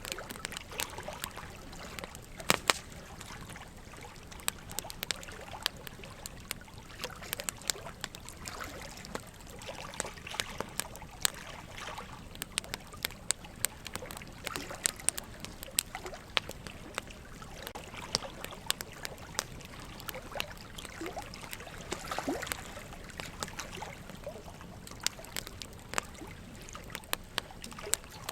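Wood fire crackling with frequent sharp pops, the loudest pair about two and a half seconds in, over a steady trickle of running water.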